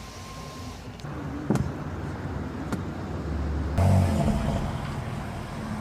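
A car's engine running with a low rumble, with two sharp clicks and a louder low thud partway through.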